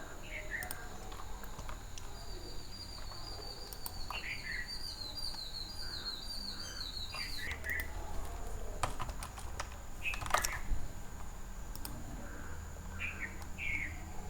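Birds chirping in the background, including a fast run of repeated high chirps lasting several seconds, with a few sharp clicks like computer keyboard typing.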